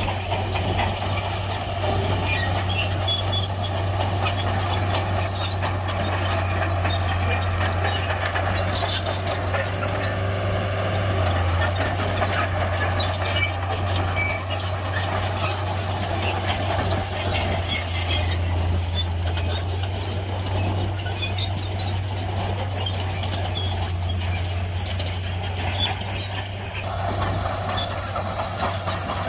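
Heavy crawler bulldozer's diesel engine running steadily at work, a constant low drone, with scattered clanks and scrapes from its tracks and the rock it pushes.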